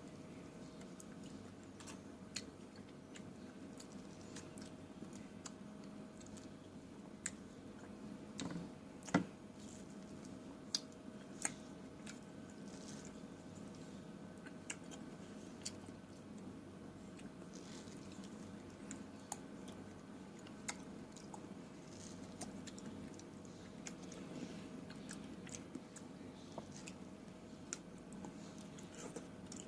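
A person chewing fresh fruit close to the microphone, with scattered wet mouth clicks and a few louder smacks, over a faint steady hum.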